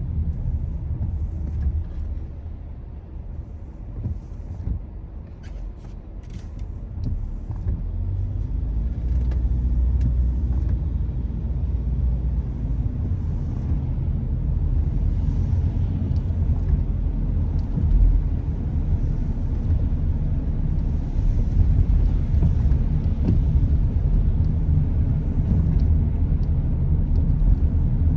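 Car driving: a continuous low rumble of engine and tyres on the road. It drops quieter a few seconds in and builds back up from about eight seconds.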